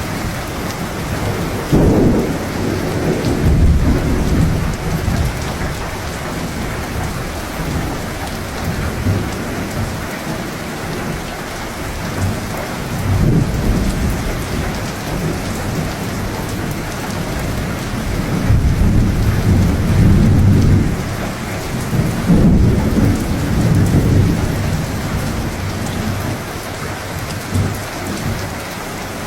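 Steady heavy rain with rolling thunder rumbling several times, the longest roll about two-thirds of the way through.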